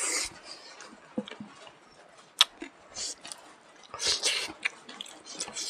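Close-up eating sounds: wet chewing, smacking and sniffing of smoked pork and rice eaten by hand, in short irregular bursts, with one sharp click about two and a half seconds in.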